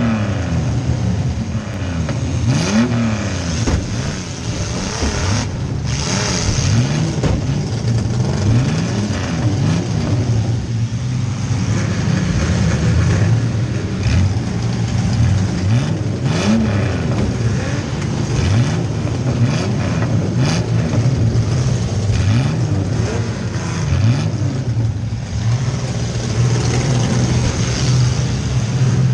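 A compact demolition-derby car's engine revving up and down again and again, heard from inside the car, with a few sharp bangs from collisions.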